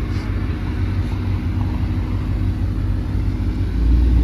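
Car engine rumbling at a low idle, which turns louder and deeper near the end.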